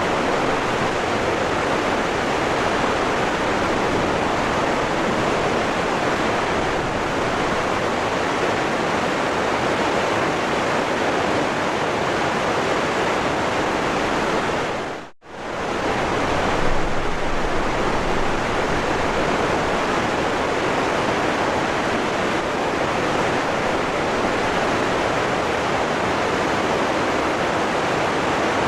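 Waterfall rushing, a steady dense roar of falling water. About halfway through it fades out to near silence for well under a second and fades straight back in, like a loop or edit join.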